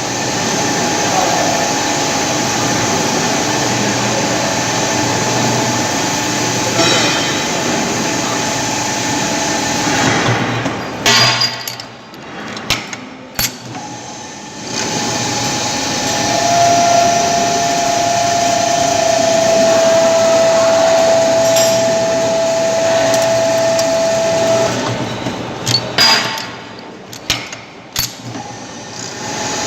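Small turning machine for ceiling fan shafts running with a steady tone. The running noise drops out twice, with sharp metallic clicks and knocks in the gaps, and a second, higher steady whine sounds for about eight seconds in the middle.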